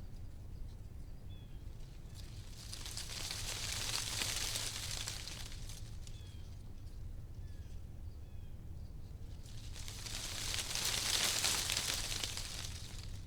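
Wind gusting through tree leaves, the rustle swelling and fading twice, loudest about four and eleven seconds in, over a steady low wind rumble.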